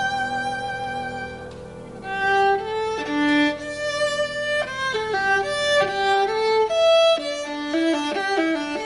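A violin playing a slow melody with vibrato. A held note fades out about a second and a half in, then a new phrase begins, with the notes moving more quickly near the end.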